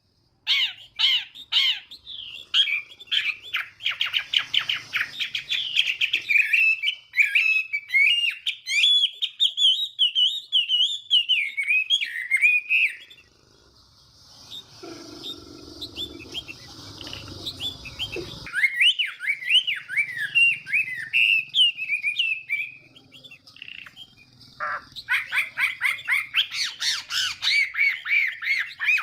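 Chinese hwamei singing: runs of rapid, varied warbling phrases, with a pause about halfway through that is filled for a few seconds by a lower, noisier sound before the song resumes.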